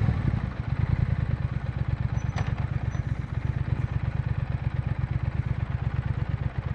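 2020 Triumph Speed Twin 1200's parallel-twin engine running at low revs. The revs drop about half a second in, and the engine then holds a steady, even, low pulsing beat.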